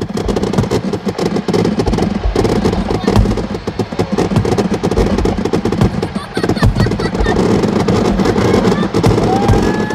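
Fireworks firing: a dense, continuous run of rapid crackling and popping from ground-level fountains and cakes, with aerial shells bursting.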